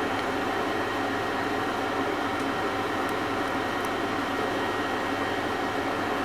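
Steady rain falling, an even hiss with no break, with a faint steady hum underneath.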